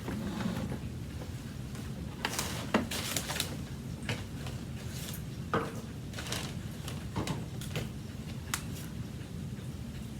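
Scattered light clicks and knocks from a vacuum cleaner's plastic parts being handled and fitted together, with no motor running.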